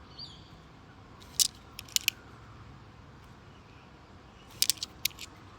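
Australian $2 coins clinking as they are handled and sorted, in a few sharp metallic clicks: one about a second and a half in, a quick pair about two seconds in, and a cluster of several near the end.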